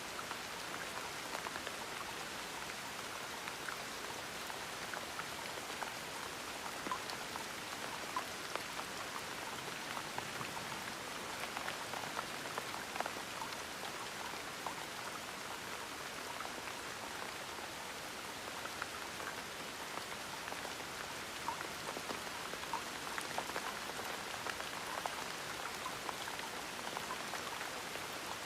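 Gentle steady rain, an even hiss with many small scattered drops pattering.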